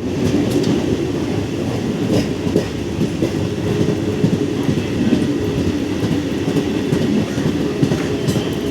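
MEMU electric train running on the line: a steady rumble of the coach with the wheels clacking over the rail joints.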